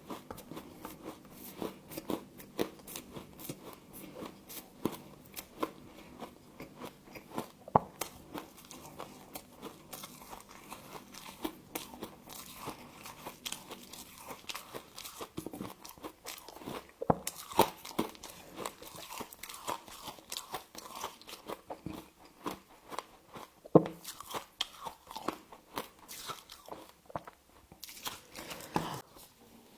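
Someone biting and chewing humidifier frost, a steady run of crisp icy crunches with a few louder bites, stopping shortly before the end.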